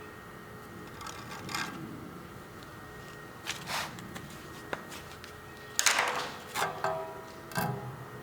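Work noises on a truck in a home garage: a run of short scrapes and knocks, the loudest about six seconds in, then a metal part ringing briefly after a clank.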